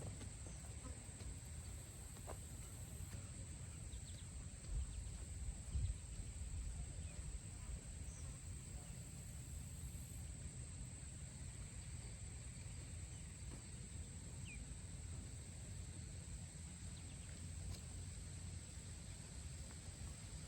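Faint outdoor ambience: a steady high-pitched insect drone over a low rumble of wind, with a couple of soft low thumps about five and six seconds in.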